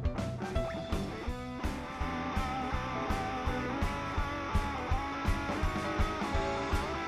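Live blues band playing an instrumental passage: electric guitar lines over a steady drum beat, with a brief break in the beat about a second and a half in.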